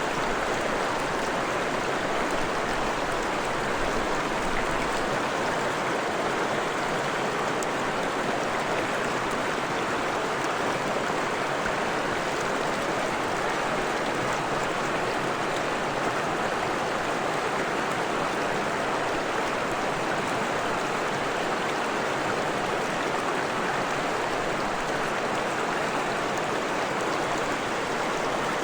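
Fresh-water stream flowing over rocks, a steady, even rushing of water.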